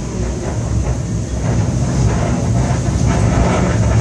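Seoul Subway Line 7 train running between stations, heard from inside the car: a steady low rumble of wheels on track that grows slightly louder, with faint clicks from the rails.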